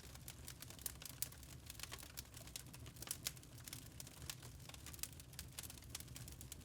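Wood fire crackling in a fireplace: a dense run of irregular sharp pops and snaps, several a second, over a low steady rumble.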